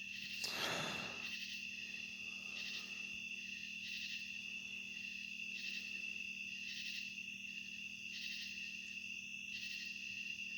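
Night insects such as crickets chirring steadily in a high trill, with a second insect call pulsing roughly once a second over it. A brief rustle about half a second in, and a faint low steady hum underneath.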